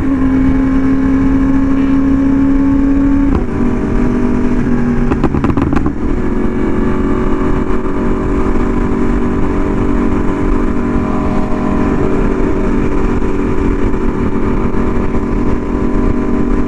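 Yamaha R1M's crossplane inline-four running at highway speed through an SC Project exhaust, a steady engine note that steps down in pitch about three seconds in. A brief rattle comes around five seconds in.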